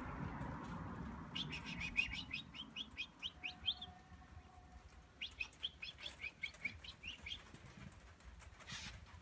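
A small bird chirping in two quick runs of rapid, high chirps, each run about two seconds long, with a short pause between. A brief rustle comes near the end.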